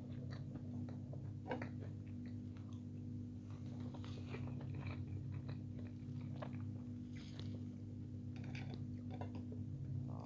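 A person chewing a mouthful of food with the lips closed: soft, scattered wet mouth clicks and smacks, over a steady low hum.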